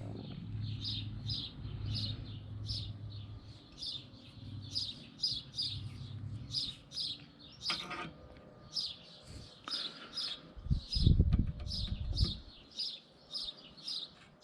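A small bird chirping over and over, short high chirps about twice a second. Under it, a low steady hum stops about six seconds in, and a brief low rumble comes near eleven seconds.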